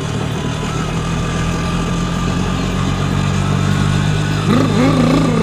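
Steady, even engine hum like a motor vehicle idling. A wavering, bending tone joins it near the end.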